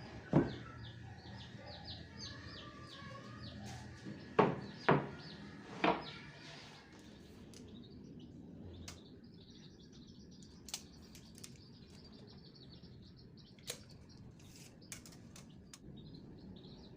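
Small birds chirping in the background, a fast run of short high chirps in the first few seconds, with four sharp knocks in the first six seconds and scattered faint clicks later.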